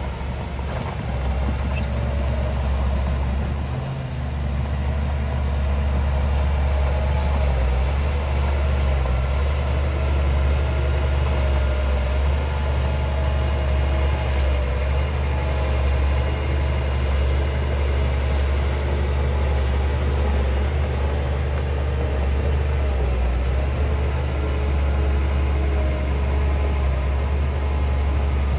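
Heavy diesel engine of earthmoving machinery running steadily at a low, even pitch, with a slight dip about four seconds in.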